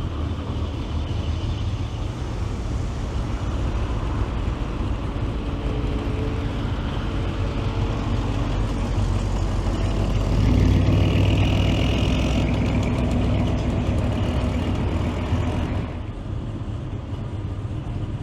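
Classic car engines running as cars drive by, one passing close and louder from about ten seconds in until about sixteen seconds in.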